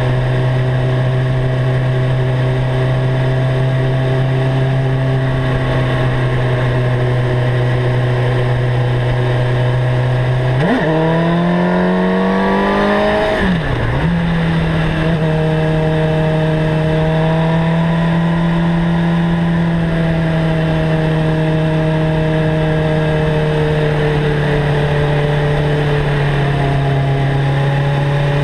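Suzuki GSX-R 750 inline-four through a Mivv GP exhaust, heard from onboard, running steadily under way. About eleven seconds in it revs up in a rising pull for about three seconds, dips sharply at an upshift, then runs on steadily at a somewhat higher pitch.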